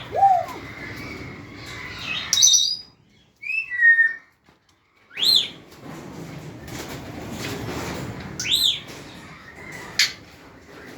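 African grey parrots calling: sharp whistles that rise and fall quickly, a few seconds apart, and one falling whistle about four seconds in. Under them are rustling and scattered clicks.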